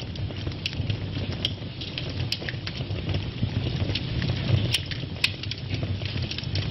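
Wood fire burning in a fireplace: a steady low rumble of flames with scattered sharp crackles and pops, the loudest about two-thirds of the way through.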